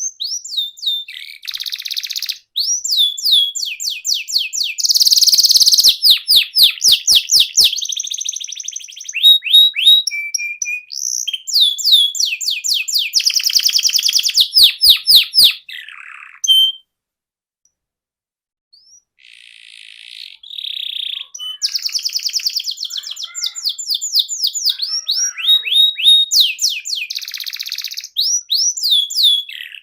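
Canary singing a long, rolling song of fast trills made of rapidly repeated sweeping high notes, changing from one trill to the next, with a break of about two seconds a little past halfway.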